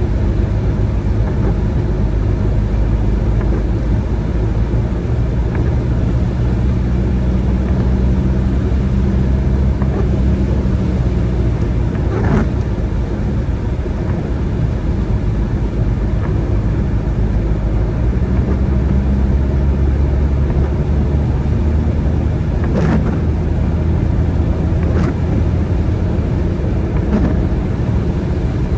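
Car driving on a wet road: steady engine and tyre hum whose low pitch shifts a few times with speed, with a few brief clicks scattered through.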